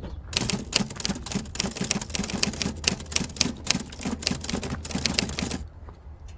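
Rapid, irregular clicking and clacking, like fast typing on a mechanical typewriter, that starts just after the beginning and stops suddenly about five and a half seconds in.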